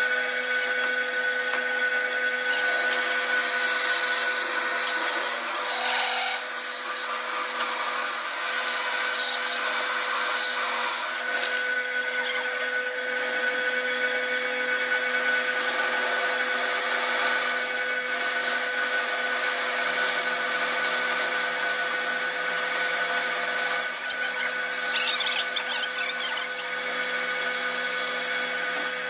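A metalworking machine running steadily, with a constant whine over a continuous hiss and a couple of brief louder scraping surges.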